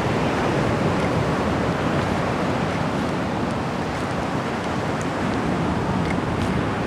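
Ocean surf washing steadily onto the beach, an even rushing sound.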